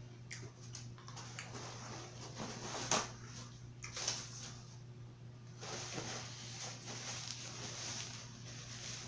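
Close-up eating sounds of a seafood boil being eaten: wet chewing and lip smacking with scattered sharp clicks, the loudest about three and four seconds in, and steadier wet chewing from about six seconds on.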